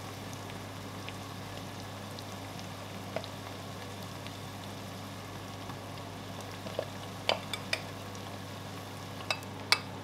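Palm oil and blended pepper sizzling steadily as they fry in a stainless steel pot, with a metal spoon clinking against the pot several times in the last few seconds as egusi paste is scraped off it into the oil.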